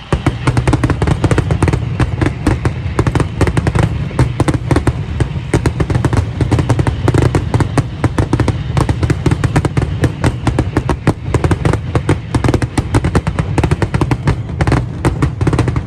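Fireworks display firing a dense, rapid barrage of bangs and crackles, many per second, over a continuous low rumble. It starts and cuts off abruptly.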